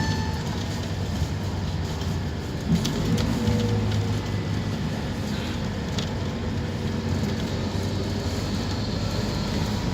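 Scania K230UB Omnilink single-deck bus heard on board while under way: a steady low engine and road rumble, with a few light rattles or knocks about three and six seconds in.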